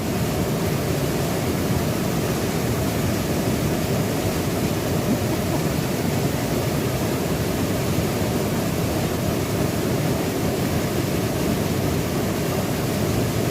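Waterfall and river water rushing steadily: a dense, even noise weighted to the low end, with no change throughout.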